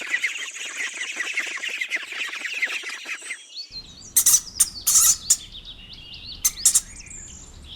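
Ducklings peeping: a dense stream of rapid high peeps. Partway through, the sound changes to sparser, sharper and higher chirps.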